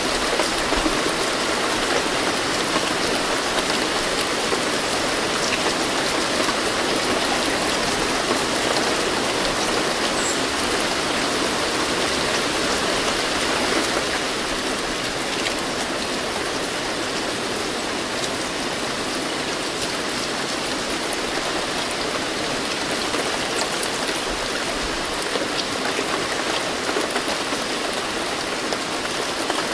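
Steady rain falling, a dense even hiss with scattered drops ticking on surfaces; it eases slightly about halfway through.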